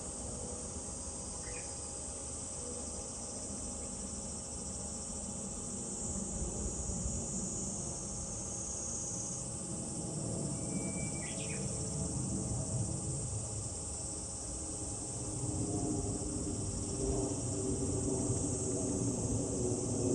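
Steady high-pitched chorus of summer cicadas, with two short bird chirps, one about a second in and one about halfway. A low rumble swells in the last few seconds.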